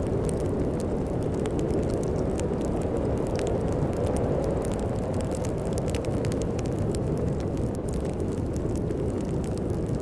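Steady low rush of snowstorm wind with a fireplace fire crackling over it, in many scattered sharp pops.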